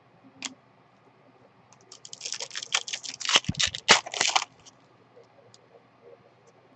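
Trading cards and their pack wrapping being handled: one click, then about two and a half seconds of quick rustles and clicks.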